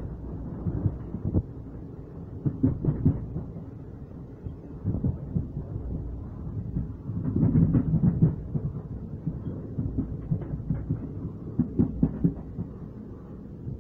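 Low rumble of a train running on the rails, recorded from its window, with irregular knocks and gusty buffeting that swells louder about halfway through.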